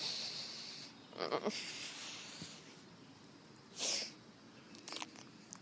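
A person's breathy vocal noises: a few short, sneeze- and snort-like bursts of breath, the loudest about four seconds in, with faint clicks near the end.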